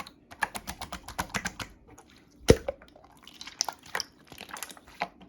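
Slime being squished and pressed by hand, making quick runs of small wet clicks and pops, with one louder pop about halfway through.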